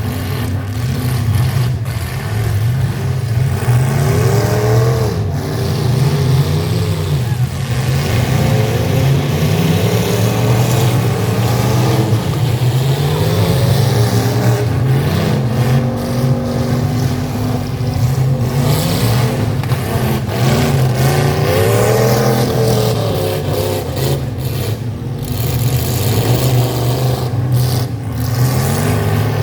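Full-size pickup truck engines running hard in a demolition derby, revving up and down over and over.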